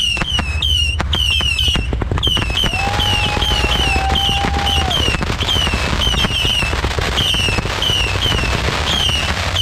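Dense barrage of fireworks and firecrackers: constant irregular cracks and bangs over a low continuous rumble. Short high chirps repeat throughout, and a steady whistle-like tone is held for about two seconds near the middle.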